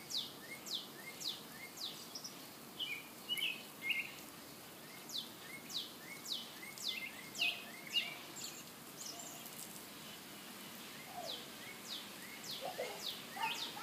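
A songbird singing runs of high notes that each fall quickly in pitch, about two notes a second, repeated in three phrases over a faint steady outdoor hiss.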